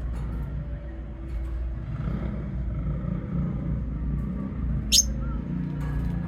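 Lovebirds chirping faintly over a steady low rumble, with one short, shrill chirp about five seconds in.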